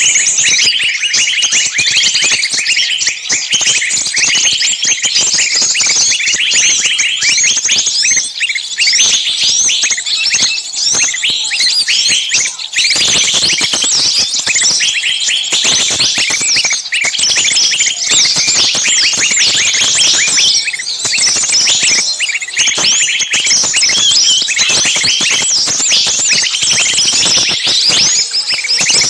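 Many small birds chirping and chattering at once, a dense, continuous overlapping chorus of short high calls.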